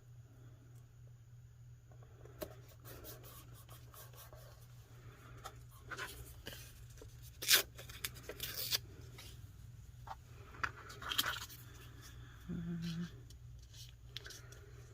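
Paper crafting sounds: craft papers and stickers rustling and crinkling, with scattered light taps and clicks as pieces are handled and laid down. A brief steady low tone sounds about two seconds before the end.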